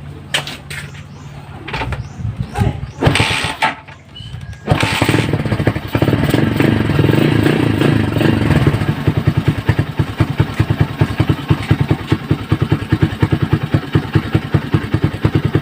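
Carburetted Z200 motorcycle engine being kick-started. A few kick strokes come in the first four seconds or so, and the engine catches about five seconds in. It runs a little faster for a few seconds, then settles into a steady idle with rapid, even firing pulses. It was started on the kickstarter because the weak battery cannot turn the electric starter.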